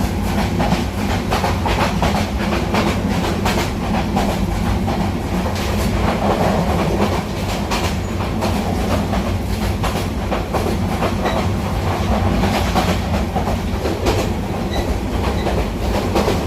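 Train running on the tracks: a steady heavy rumble with the repeated clickety-clack of its wheels over the rail joints.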